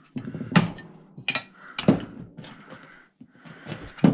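Scrap metal pieces being handled and knocked together: four loud, sharp metallic clanks with lighter knocks between them.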